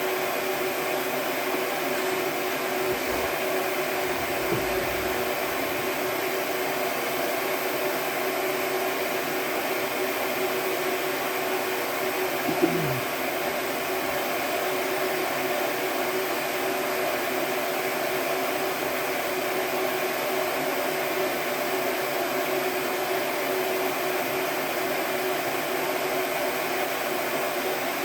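Steady whirring hum of running shop machinery, with one short knock about thirteen seconds in.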